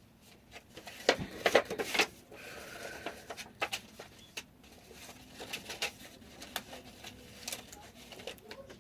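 Paper crinkling and rustling, with sharp clicks clustered about a second in and scattered later, as greeting cards are handled, alongside soft cooing from a dove.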